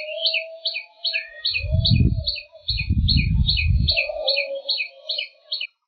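Birds calling: a rapid run of high, even chirps, about four to five a second, over a lower drawn-out call, with two loud deep sounds in the middle. The sound cuts off suddenly near the end.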